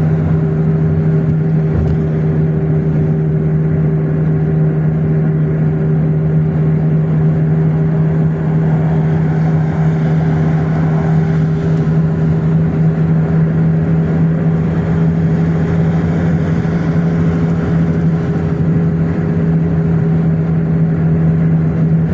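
Car running along the road with a steady, unbroken drone of engine and road noise.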